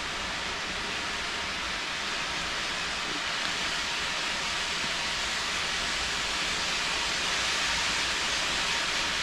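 Garden fountain firework hissing steadily as it sprays sparks, growing slightly louder.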